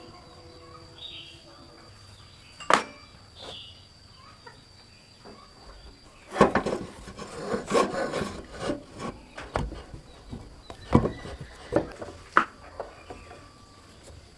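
Irregular knocks, clicks and scraping, as of hand work on parts, busiest between about six and nine seconds in, with a few single sharp knocks after, over a faint steady high-pitched tone that stops about six seconds in.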